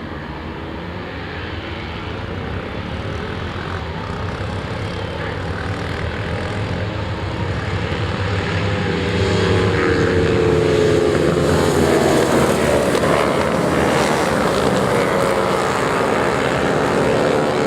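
Racing motorcycle engines at full revs, their drone building steadily louder over about ten seconds, then several engine notes rising and falling together.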